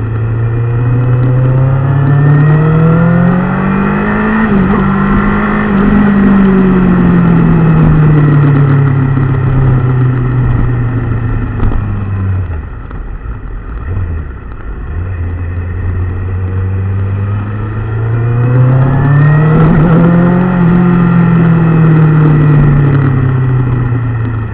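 Engine running under load, its pitch rising steadily then sinking back, twice, with a brief drop-off in the middle.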